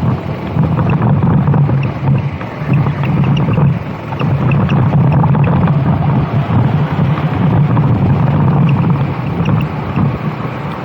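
Racing kart engine running hard on track, with wind buffeting the microphone; the engine note dips briefly near the start and again about four seconds in, then holds steady.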